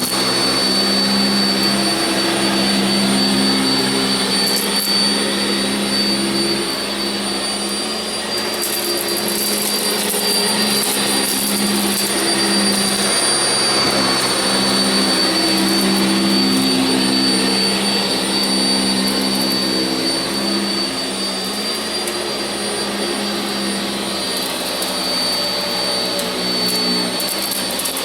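Sanitaire SC679j upright vacuum cleaner running steadily over carpet with a constant high-pitched whine. Its lower hum swells and fades every few seconds.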